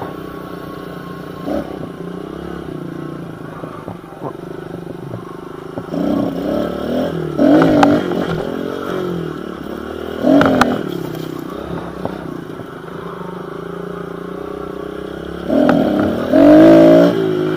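Small pit bike engine running under the rider, blipped up and down in several short rev-ups, with a longer, louder burst of revs near the end.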